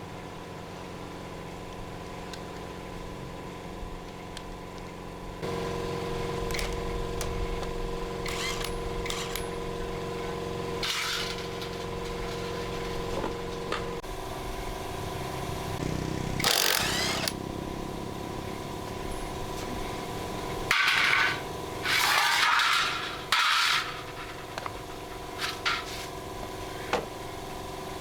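Workshop sounds: a steady mechanical hum that grows louder about five seconds in, with several short bursts of harsher tool noise in the second half and a few sharp clicks.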